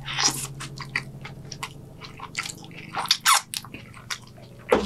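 Mouth sounds of a man biting into and chewing a triple Whopper burger: an irregular run of short clicks and smacks.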